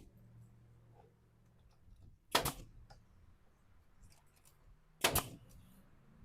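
Two sharp, loud clacks of a hand tool being worked, about two and a half seconds apart.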